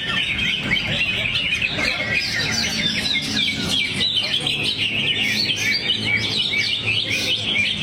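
Greater green leafbird (cucak hijau) singing a continuous, fast stream of varied chirps and trills, delivering its song material.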